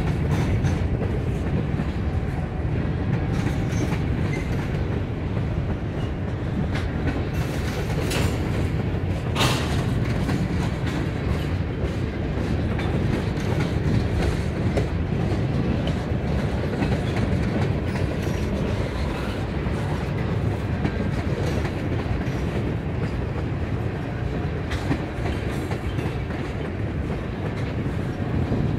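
Mixed manifest freight train of tank cars and covered hoppers rolling past, its wheels on the rails making a steady low rumble. Two brief sharp sounds cut through it about a third of the way in.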